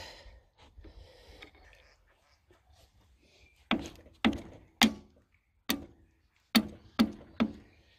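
About seven sharp knocks and clicks of hand tools on the old diesel's rocker gear and head, spaced unevenly through the second half, as a stuck part is worked loose.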